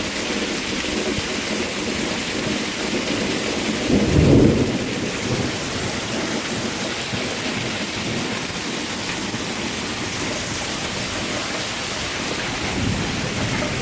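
Heavy rain pouring down steadily in a downpour, with a brief low rumble about four seconds in.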